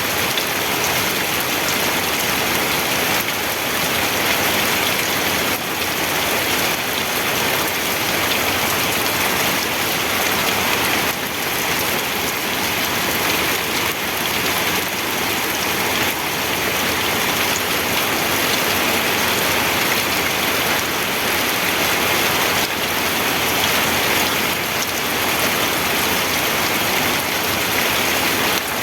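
Steady rain falling and pattering on a surface, an even hiss with no breaks or thunder.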